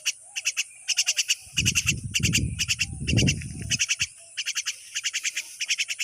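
Chorus of calling animals: short trains of rapid pulsed calls, each about half a second long, repeat again and again over a steady high buzz. A louder low rumble joins from about one and a half seconds in until nearly four seconds.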